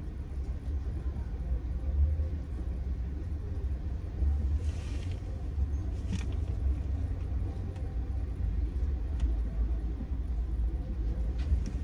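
Steady low rumble of an idling car, with a brief hiss about four and a half seconds in and a few faint clicks.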